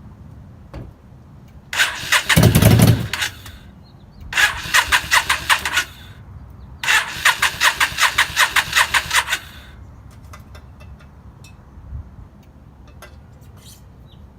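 Yamaha V-Star 650's air-cooled V-twin being cranked on the electric starter in three tries, each a rhythmic chugging of about five pulses a second. A heavier rumble comes during the first try, but the engine does not keep running. This is a crank-but-no-start, with a fuel-delivery fault suspected, as the bike only fires on starting fluid.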